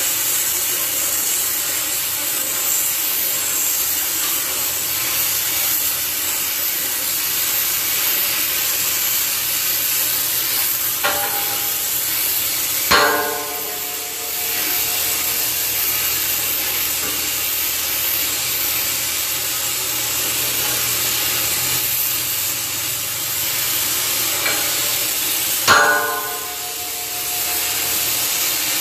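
Two hard hammer blows on metal, about 13 seconds apart, each leaving a short metallic ring. A steady hiss runs underneath.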